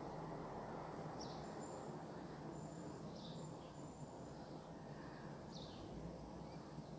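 Small birds chirping, a few short high calls a second or two apart, over a faint steady rush of background noise.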